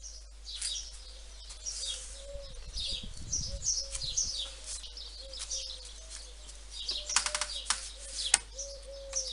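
Songbirds chirping with many short, high, down-slurred calls repeated throughout. A few light clicks and knocks come near the end.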